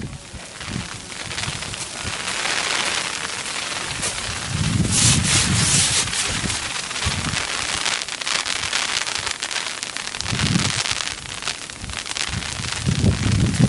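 Hailstorm: a dense, steady clatter of hailstones striking the ground, with a few louder low swells along the way.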